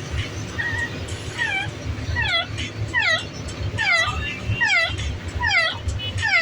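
A pet's repeated squealing calls: short, clear notes that each drop sharply in pitch and hook back up slightly at the end, about two a second, starting about a second and a half in.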